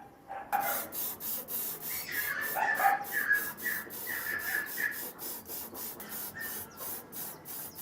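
Rapid back-and-forth hand scrubbing strokes on a rusty metal part of an old portable power planer, about three to four strokes a second, with short squeaky tones between about two and five seconds in.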